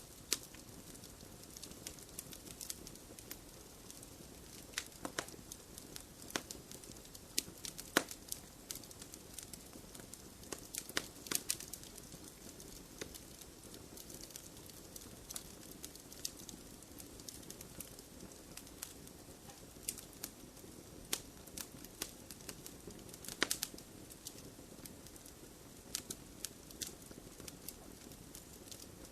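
Wood fire burning in a fireplace: a low steady hiss with irregular sharp crackles and pops, several louder snaps among them.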